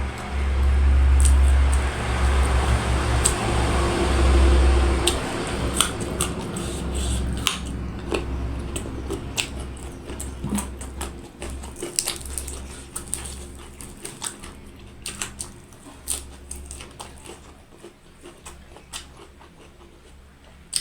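Close-miked mukbang eating sounds: chewing and biting with many short, sharp clicks and smacks. A low rumble sits under them, loudest in the first few seconds, and fades away about fourteen seconds in.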